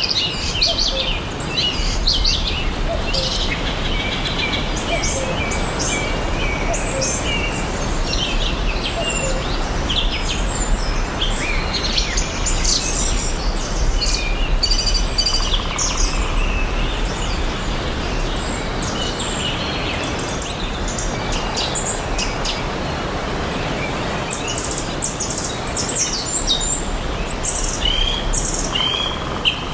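Several songbirds chirping and trilling over a steady outdoor hiss and low rumble. Near the end one bird repeats a short note several times in quick succession.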